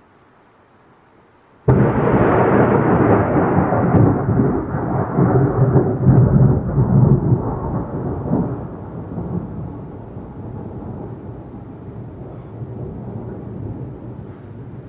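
Thunderclap. About two seconds in a sudden crack breaks into a loud, deep rumble. The rumble rolls on for several seconds and slowly dies away.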